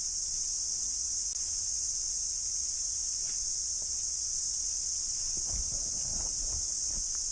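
Cicadas in full chorus: a dense, steady, high-pitched buzz that doesn't let up.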